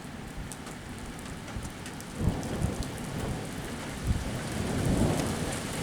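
Thunder rumbling from a night thunderstorm, swelling about two seconds in and again near the end. Scattered ticks of the first raindrops arriving ahead of the downpour can be heard under it.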